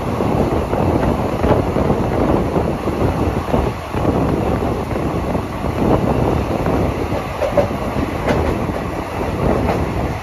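Express train running at speed, heard from inside a passenger coach: a steady rumble of wheels on the track with the clickety-clack of rail joints and a few faint sharp clicks near the end.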